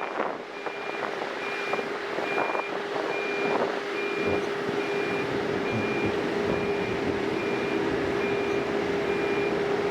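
Reversing alarm on road-works machinery beeping evenly, about once a second, over the steady drone of the machine's running engine.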